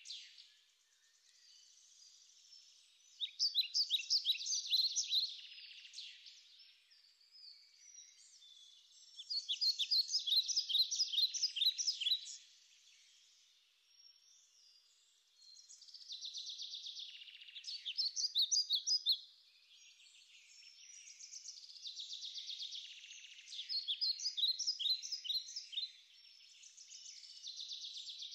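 Bird song: bursts of rapid high chirps, each lasting two or three seconds and coming back about every six seconds, with fainter chirping in between.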